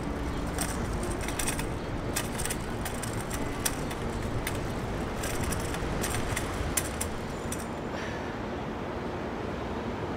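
Steady low outdoor rumble, like distant traffic and wind, with a run of light, irregular clicks and taps that stop about eight seconds in.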